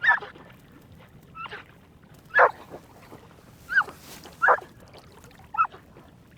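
Hunting retriever whining and yipping in short, high cries, about six in a row, while held on stay and eager to retrieve a downed duck.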